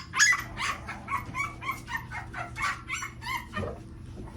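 Young American Bully puppy crying: a run of short, high-pitched squeals, about three a second, that stop a little before the end.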